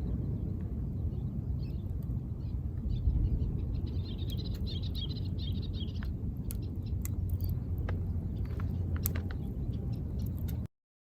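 A steady low wash of waves with scattered crackles from a wood campfire, and a flurry of high bird chirps a few seconds in. The sound cuts off abruptly near the end.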